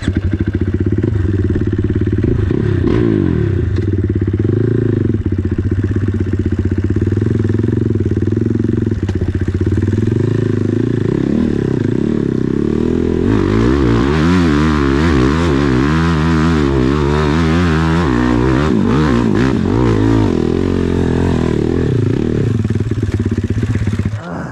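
Dirt bike engine revving hard under load on a steep hill climb. Its pitch rises and falls over and over, most wildly about halfway through, when a hiss joins in.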